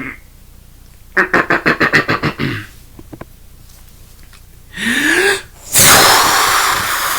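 A person making vocal sound effects: a fast rattling trill, then a short rising and falling call, then a long, loud breathy hiss near the end.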